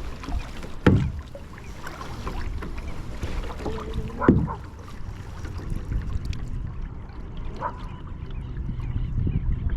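Water sloshing and lapping around a paddled kayak, with two louder splashes of the paddle, about one second in and about four seconds in.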